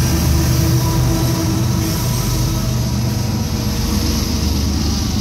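Freight train diesel-electric locomotives passing close by: a loud, steady rumble of engines and steel wheels on rail. The first double-stack container cars follow near the end.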